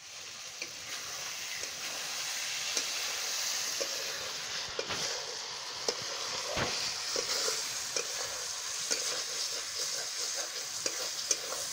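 Chicken curry sizzling in a kadai over a wood-fired chulha: a steady frying hiss with scattered small pops and crackles. The curry is being cooked down with only a little liquid.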